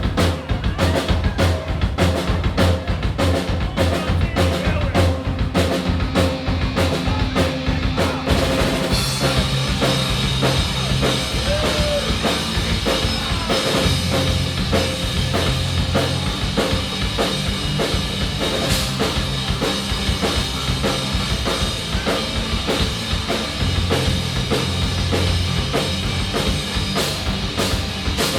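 Live rock band playing an instrumental opening, led by the drum kit with bass drum and snare hits and a bass line. About nine seconds in the sound fills out as the rest of the band comes in.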